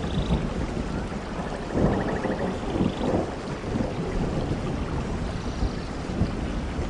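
Rain hissing over a steady, uneven low rumble, with a few faint high chirps.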